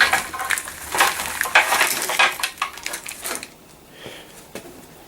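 Hard metal parts clinking and scraping as they are handled, busy for about the first three seconds and then a few scattered light clicks.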